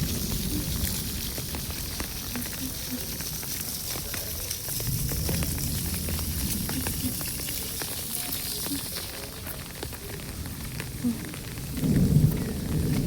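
Steady rainfall: a constant hiss with many small pattering drops. A low rumble runs underneath and swells near the end.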